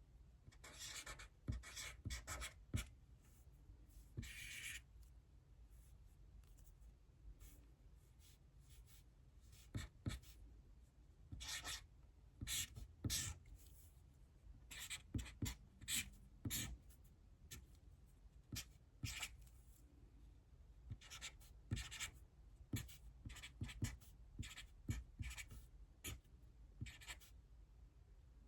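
Handwriting: short scratchy strokes of a writing tool on a surface, coming in clusters with pauses of a few seconds between.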